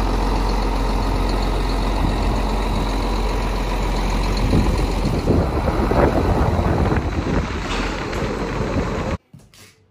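Farm tractor engine running steadily with a heavy low rumble, stopping abruptly about nine seconds in.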